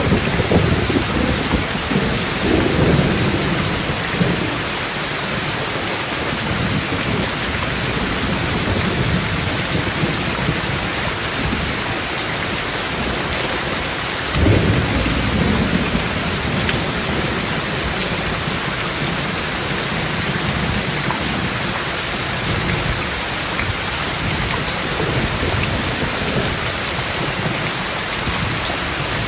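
Steady heavy rain with thunder: a rolling rumble in the first few seconds, then a sharper thunderclap about halfway through that rumbles away over several seconds.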